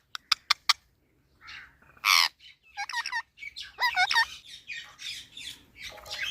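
Pet parrot calling: a few sharp clicks at first, then harsh squawks and a run of repeated screeching calls from about a third of the way in.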